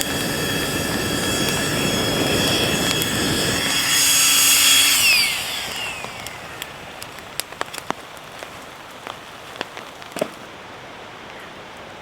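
A steady high mechanical whine over a hiss, which slides sharply down in pitch about five seconds in and fades away. A few light clicks follow.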